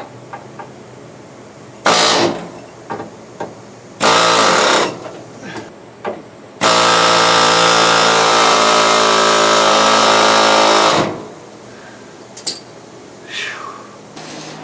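Pneumatic air hammer hammering on a stuck, rust-seized bolt in three bursts: a short one about two seconds in, a second lasting about a second, then a long burst of about four seconds.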